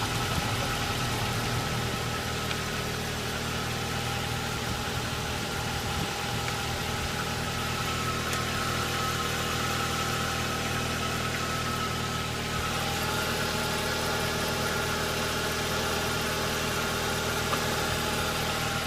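Ford Mondeo 1.6 L L1J four-cylinder petrol engine idling steadily.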